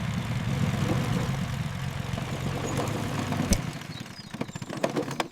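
A car engine running steadily with a low hum; a sharp knock comes about three and a half seconds in, after which the engine sound dies away, with a few light clicks near the end.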